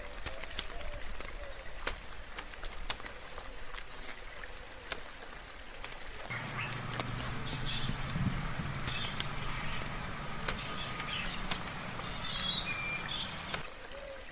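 Soft rain pattering, with scattered sharp drip ticks, while small birds chirp in short high calls. From about six seconds in until near the end, a low steady hum runs underneath.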